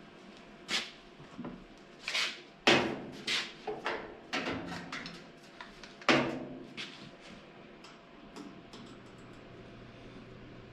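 Irregular clanks and knocks of metal parts and tools being handled and fitted, the two loudest about a third and just over half way through, some ringing briefly. A faint steady low hum starts near the end.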